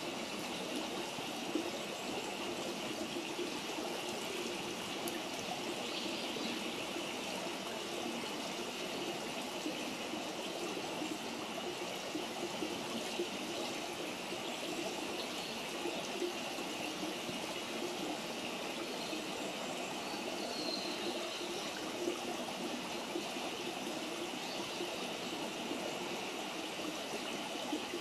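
Steady rush of flowing stream water, with a few faint sharp pops from a wood campfire scattered through it.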